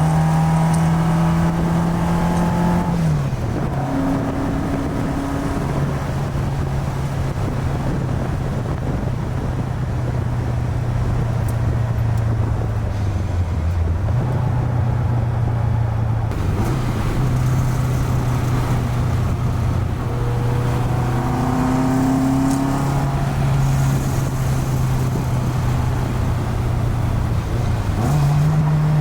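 1965 Alfa Romeo Giulia Super's twin-cam four-cylinder engine heard from inside the cabin while driving, running at steady revs. The engine note drops about three seconds in, holds lower with a brief dip midway, and rises again near the end.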